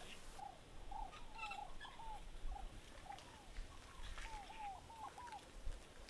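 A bird calling over and over with short notes that rise briefly and fall in pitch, some in quick pairs, about two or three a second, faint.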